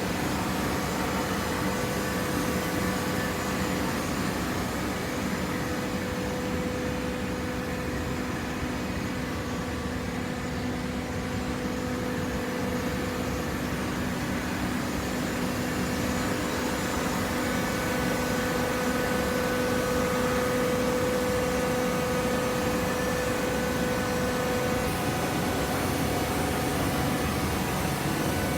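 Hydraulic cardboard baler's electric motor and pump running with a steady hum and whine, the whine growing louder for a few seconds past the middle.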